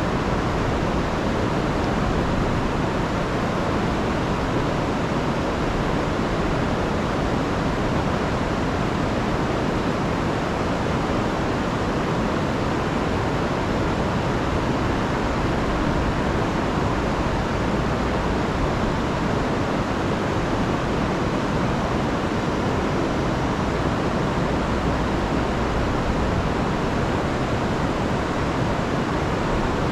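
A river in spate after heavy rain, its rushing water a steady, unbroken roar.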